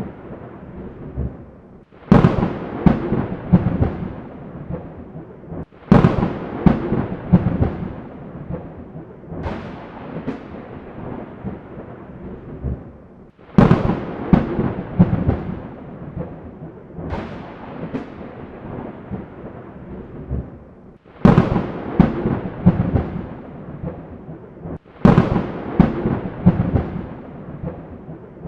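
Thunderstorm: a series of sudden, sharp thunderclaps every few seconds, each crackling and then rolling off, over a steady hiss of rain.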